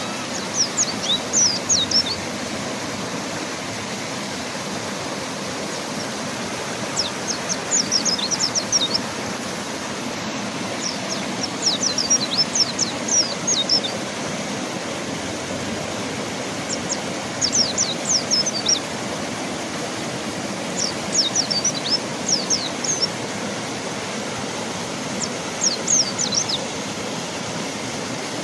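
Mountain white-eye singing short phrases of rapid, high, falling notes, repeated about every four seconds, over the steady rush of river water.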